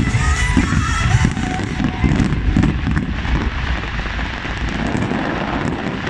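Fireworks going off in a dense, irregular run of low bangs and crackle, with a few brief whistling glides in the first second or so.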